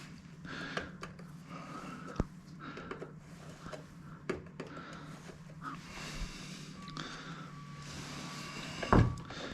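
Faint, scattered clicks and scrapes of a hand tool working at a stuck fastener on a motorcycle, over a steady low hum, with one sharper click about two seconds in and a short louder puff near the end.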